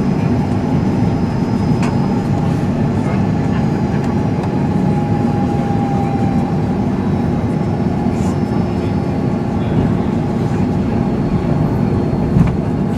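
Steady cabin noise inside an Airbus A330-300 on final approach: a dense, even rumble of engines and airflow with faint steady tones above it, and a couple of small clicks.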